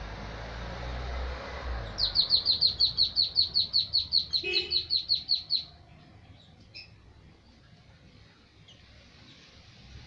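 A bird calling a fast run of about twenty sharp, high, downward-slurred notes, roughly six a second, for about three and a half seconds from about two seconds in. Before it there is a low rushing noise on the microphone.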